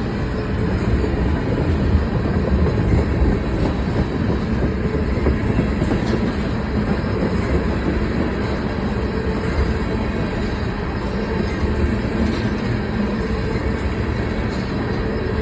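A mixed freight train's cars rolling past at close range: a steady rumble of steel wheels on rail.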